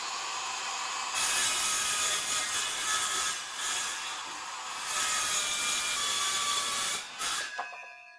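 Circular saw running and cutting along the edge of a countertop cutout, guided by a straight-edge; the cut gets louder about a second in and the saw stops near the end.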